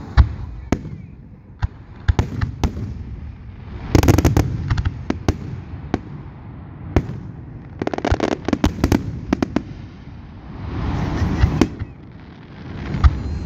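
Aerial fireworks display: shells bursting with sharp bangs at irregular intervals, and dense runs of rapid crackling about four and eight seconds in.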